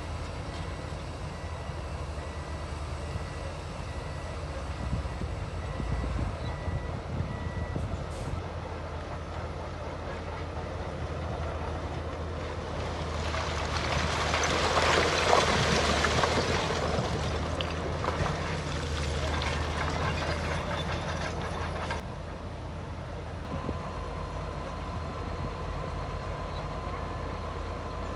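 Bulldozer at work: a diesel engine runs steadily with a low drone. About halfway through, a louder wash of noise rises and fades again within a few seconds.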